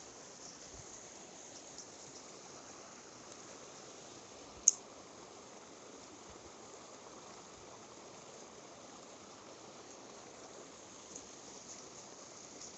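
Mountain stream water flowing steadily, with one short, sharp click about a third of the way in.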